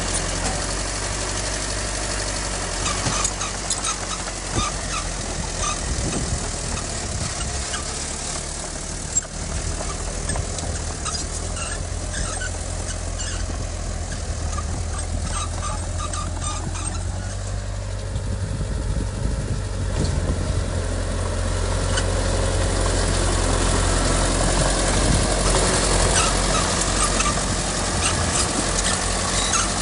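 Heavy diesel earthmoving machinery running steadily, a low engine drone, with short high-pitched squeaks and clicks coming and going over it. The drone grows slightly louder in the last third.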